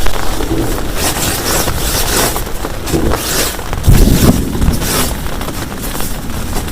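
Heavy rain pouring down hard, surging in waves, with a low rumble of thunder swelling about four seconds in.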